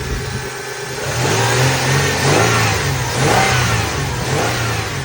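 2002 Toyota Tacoma's engine running, revved up and down a few times from about a second in; it runs smoothly.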